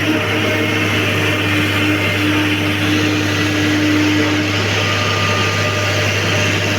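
John Deere excavator's diesel engine running steadily under working load, with a higher steady whine from the hydraulics that stops about four and a half seconds in.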